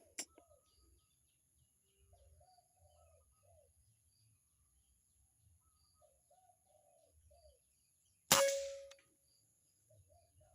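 Spotted dove cooing in short phrases repeated every few seconds, then a single sharp air-rifle shot about eight seconds in, with a brief metallic ring fading over half a second. A small click sounds just after the start.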